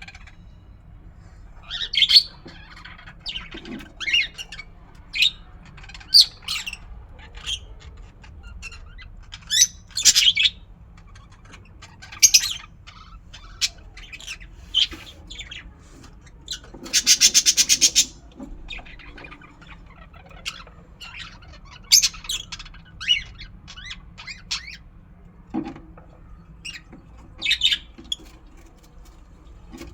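Fischer's lovebirds calling with short, shrill chirps and squawks scattered irregularly, and a rapid buzzing trill lasting about a second a little past the middle.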